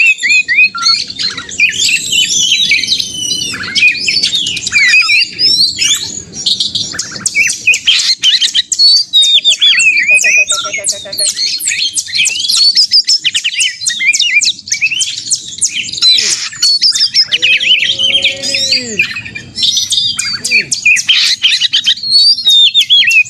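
Oriental magpie-robin (kacer) singing loudly and without a break: a rapid jumble of whistled glides, chirps and fast trills. This is the agitated, challenging 'narung' song of a bird in top form, used to provoke other magpie-robins into singing.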